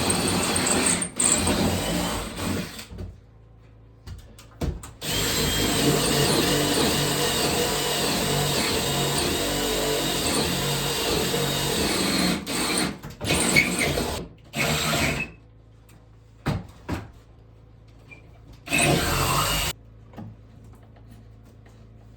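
Power drill running in bursts: a run of about three seconds, a longer run of about seven seconds, then several short bursts.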